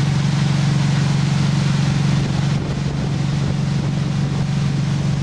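Motorboat engine running under way at a steady pitch, with wind and water noise over it.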